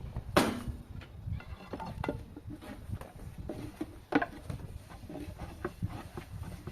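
Scattered knocks and taps, the loudest about half a second in and another about four seconds in, over a steady low rumble.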